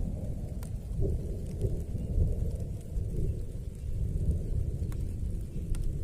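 Thunder rumbling low under heavy rain, with a few sharp ticks of drops hitting nearby.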